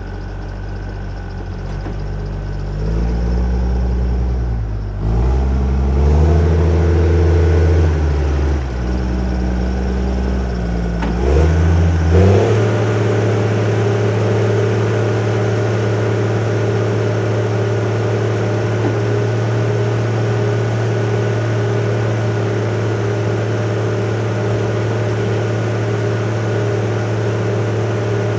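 Diesel engine of heavy logging machinery running, its speed rising and falling for the first dozen seconds, then held at a steady high speed.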